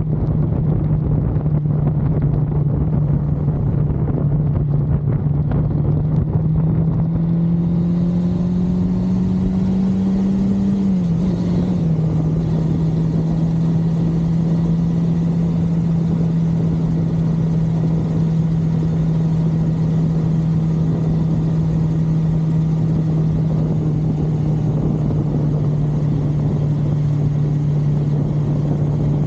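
1982 Suzuki GS550L's air-cooled inline-four engine running at a steady cruising speed, with wind rumbling over the microphone. A little way in the engine note climbs slowly, then drops suddenly near the middle and holds steady again.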